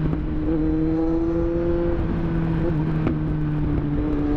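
Kawasaki Z900's 948 cc inline-four engine running steadily at road speed, its pitch rising slightly about half a second in and then holding, with low wind rush on the microphone.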